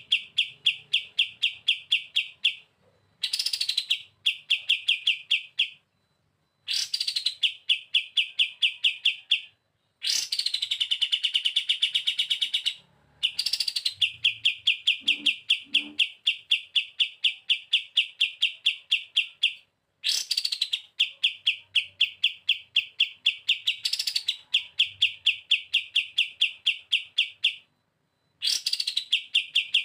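Kapas tembak songbird singing its fast 'bren' trill: runs of quickly repeated, evenly spaced notes, each run opening with a higher note that slides down, broken by short pauses. About eight runs, the longest near the middle lasting around six seconds.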